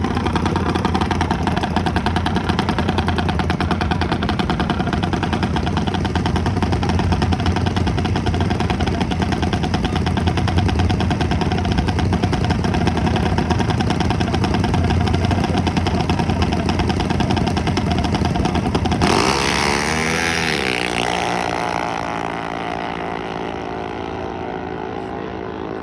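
Mini bike engines running loudly and steadily through a drag race run. About three-quarters of the way through the sound changes: an engine note slides down in pitch, then settles into a quieter, steady drone.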